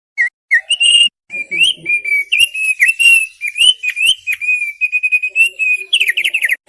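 Thick-billed heleia (opior paruh tebal) singing a fast, unbroken run of clear whistled notes, ending in a rapid series of quick down-slurred notes.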